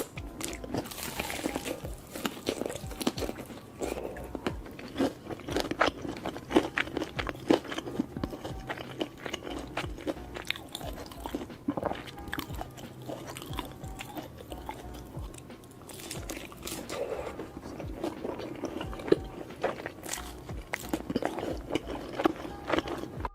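Close-miked ASMR eating: crunchy bites into crispy fried chicken and chewing, a dense irregular run of crisp crackles.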